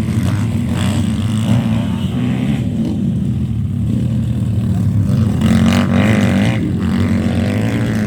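Motocross motorcycle engines running and revving, with a longer, louder rev about five and a half seconds in.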